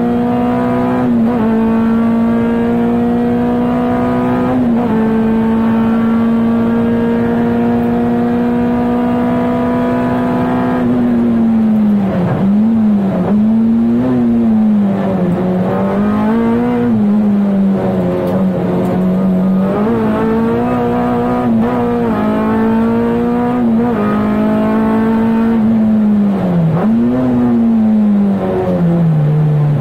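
Honda K24 four-cylinder engine of a 1996 Integra Type R race car, heard from inside the cabin at high revs. The revs are held high and nearly level with a couple of brief dips for about the first ten seconds, then fall and climb again and again through the rest.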